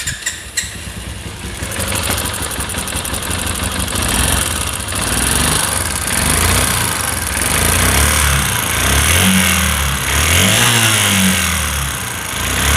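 Runner Turbo 125 motorcycle's single-cylinder engine running and being revved up and down several times, its pitch rising and falling. The engine sounds very bad, a noise the mechanic traces to a worn connecting rod and crankshaft bearings.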